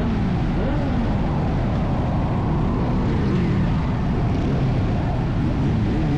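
Motorcycle engine running on the move under heavy wind noise, its note gliding up and down several times as the throttle changes.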